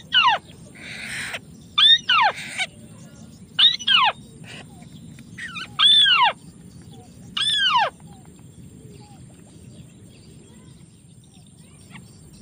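A bird's call, a harsh note falling steeply in pitch, given five times about every two seconds and stopping about eight seconds in. A brief rustle comes about a second in.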